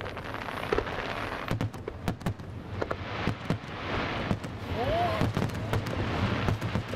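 Aerial fireworks display: a rapid run of sharp bangs and crackles over a continuous noisy hiss, which swells in the middle. A brief tone rises and falls about five seconds in.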